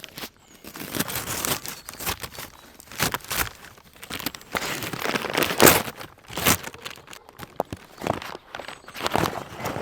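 Irregular rustling and crunching noises, as of dry material being handled, in uneven clusters with a loudest crunch a little past the middle.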